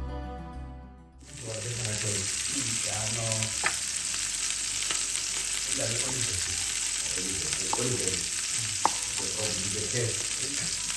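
Food sizzling as it fries, a steady hiss with a few sharp crackles, after background music fades out about a second in.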